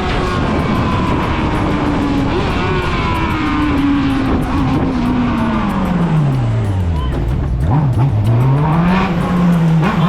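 Motorcycle engine running under load with steady road noise. Its pitch sinks gradually as it slows, bottoming out about three-quarters of the way through, then rises again as it speeds back up.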